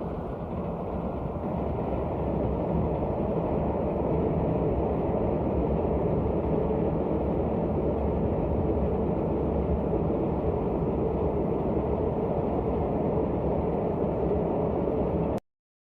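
Express train with LHB coaches running through at speed: a steady heavy rumble of wheels on rail that builds over the first couple of seconds, then cuts off suddenly near the end.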